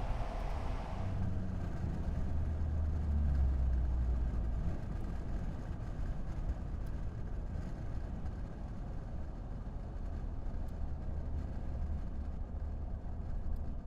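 Ford F-150's 3.5L EcoBoost twin-turbo V6 running through a Flowmaster FlowFX cat-back dual exhaust with straight-through muffler, giving a deep, low exhaust rumble. It swells for a few seconds about a second in, then settles to a steady level.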